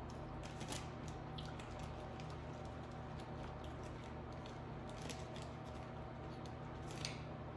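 Faint scattered crisp clicks and crackles of chewing and handling seafood, a few sharper ones about a second in and near the end, over a steady low hum.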